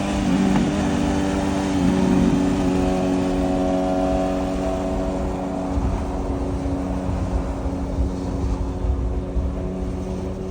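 BMW S1000RR inline-four sportbike engine running at a steady high cruise through a titanium full exhaust, its pitch holding nearly level, over gusting wind rumble. The sound eases slightly quieter over the last few seconds.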